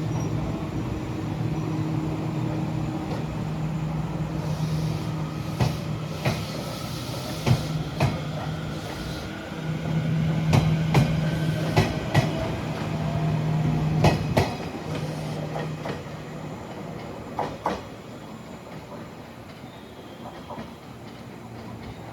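Train running on the track, its wheels clacking over rail joints in a string of sharp clunks over a low hum, with a faint rising whine in the middle; the sound dies away near the end.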